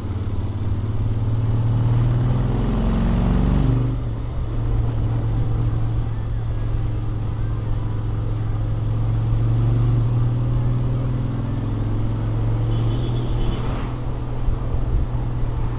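Honda X-ADV 750 parallel-twin engine with stock exhaust and Akrapovic manifold, heard riding along. Its note rises under acceleration, drops suddenly about four seconds in, then runs steady.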